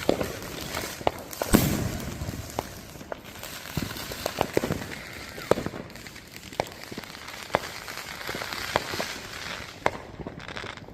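Consumer fireworks going off across a neighborhood: irregular bangs and pops, some near and loud, others distant, with a haze of crackle between them. The loudest reports come in the first two seconds, and they thin out toward the end.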